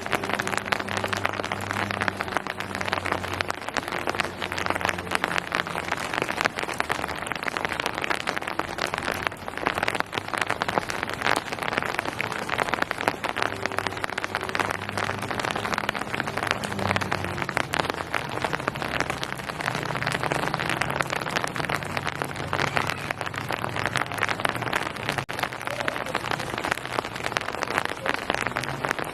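Steady rain falling, a dense patter of countless drops, with a faint low hum underneath.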